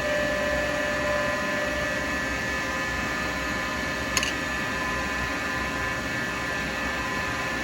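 Woodturning lathe running steadily, its motor giving a constant whine, with one sharp click about four seconds in.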